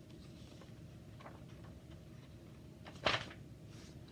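A page of a picture book being turned: one short, sharp swish about three seconds in, over faint room hiss.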